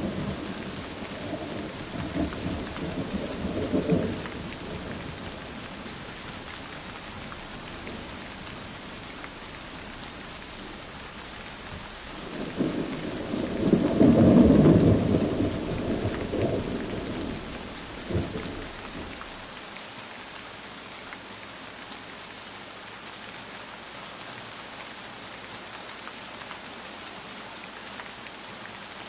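Steady rain falling, with rolls of thunder: one fading in the first few seconds and a louder, longer roll from about twelve seconds in that dies away by about nineteen seconds, leaving only the rain.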